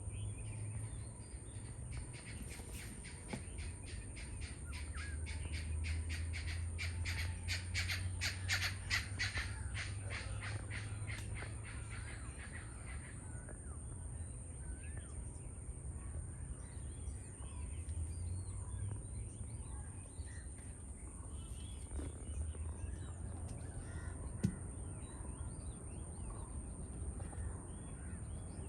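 Birds calling outdoors: a run of rapid, repeated harsh calls that builds and fades between a couple of seconds in and about thirteen seconds in, then scattered quieter calls. Throughout there is a steady high-pitched hiss and a low rumble.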